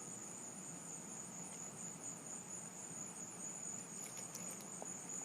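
Crickets chirping in a steady high-pitched trill, a continuous tone with an evenly pulsing chirp just above it, faint under a low background hiss.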